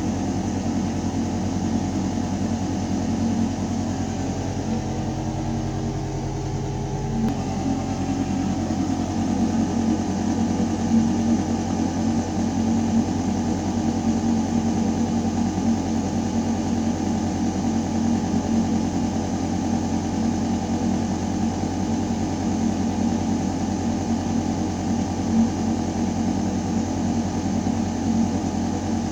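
Ventilation system running: a steady mechanical hum of air moving through metal ductwork, with several steady low tones under a hiss. About seven seconds in, the deepest rumble drops slightly and the mix of tones shifts, then holds steady.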